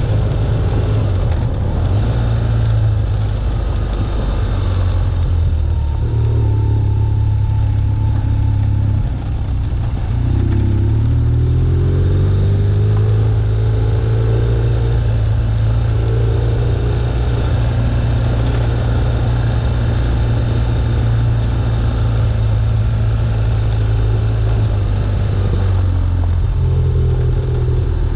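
BMW R1200GS boxer-twin engine running at low road speed under steady throttle. About ten seconds in the engine note briefly drops, then climbs in pitch as the bike accelerates again.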